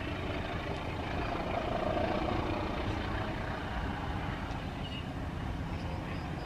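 Passenger train running over a steel truss railway bridge at a distance: a steady rumble of wheels on rails as the coaches move away.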